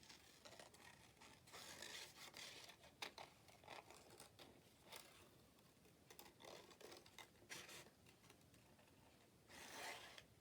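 Faint, irregular snips and scrapes of scissors cutting out paper by hand (fussy cutting).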